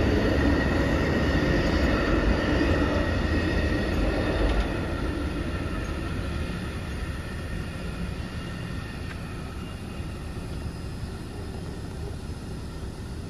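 Amtrak Auto-Train autorack cars rolling past with a steady rumble of wheels on rail. The sound drops about five seconds in and keeps fading as the train moves away.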